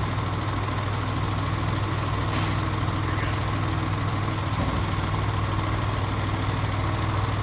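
Kubota tractor's diesel engine running steadily at idle, a constant low hum.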